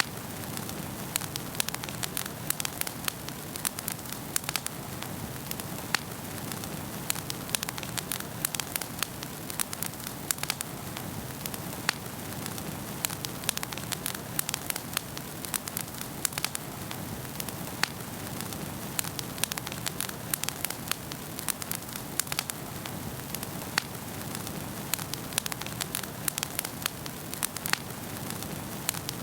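Wood fire crackling in a fireplace: frequent sharp pops and snaps at irregular intervals over a steady hiss of burning.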